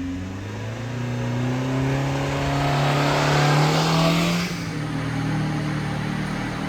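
1993 Subaru Sambar kei truck's 660 cc four-cylinder engine revving, its pitch climbing slowly for about four and a half seconds, then falling back and running steadily.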